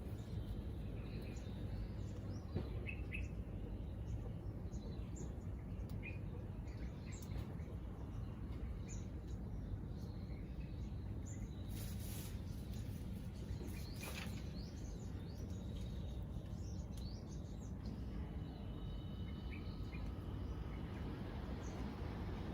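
Outdoor ambience: a steady low rumble of background noise with scattered short, high bird chirps throughout, and a couple of brief hissy bursts about midway.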